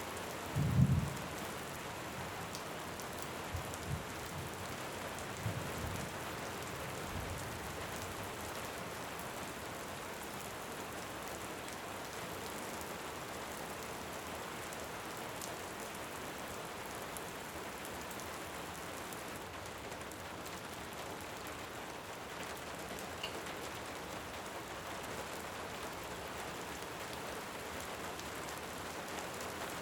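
Steady rain falling as an even hiss. A few short, low thumps come in the first several seconds, the loudest about a second in.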